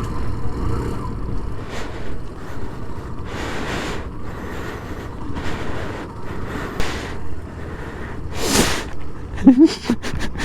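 A rider breathing hard into a helmet microphone: about five heavy exhalations a second or two apart, the last one the loudest, over a low rumbling background.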